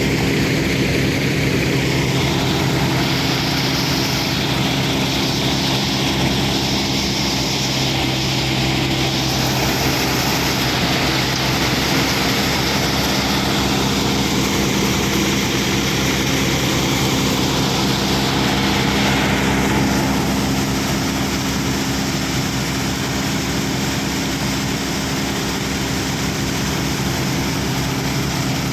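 John Deere tractor's diesel engine running steadily at a constant speed, a deep even drone. About 20 seconds in, the high hissy part of the sound eases off a little.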